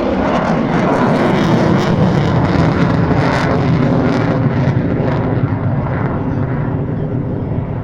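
Jet roar of an F-35 Lightning II's single Pratt & Whitney F135 turbofan passing overhead, a heavy rumble with a ragged crackle that is loudest in the first half and slowly eases off near the end.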